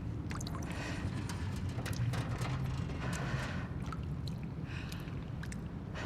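Abandoned-building ambience: a steady low rumble with many scattered small clicks and ticks and a few soft washes of noise.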